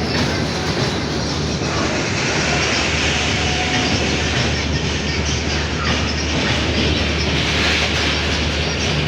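Indian Railways passenger train running on the track, a steady, loud noise of wheels and carriages on the rails with a low hum underneath.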